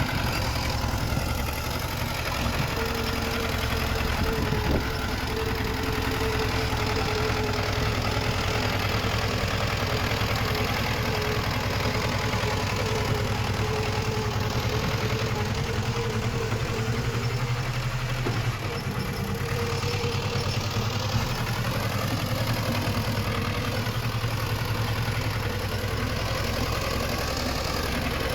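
Diesel engine of heavy earthmoving machinery running steadily, with a thin steady whine over it from a few seconds in until about two-thirds of the way through.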